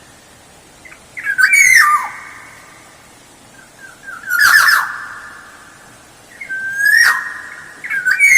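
Oriole (kepodang) singing loud, fluted whistled phrases that glide up and down in pitch, four phrases about two to three seconds apart, each trailing off with a lingering echo.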